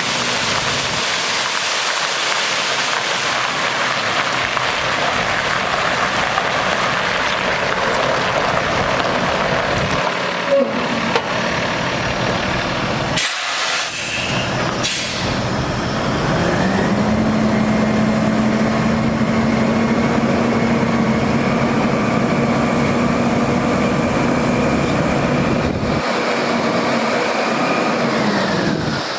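Water spraying from a truck's spray system with a steady hiss. About sixteen seconds in, the Cummins ISL diesel revs up and holds at high revs for about twelve seconds to drive the PTO water pump, then drops back near the end. A few short clicks come midway.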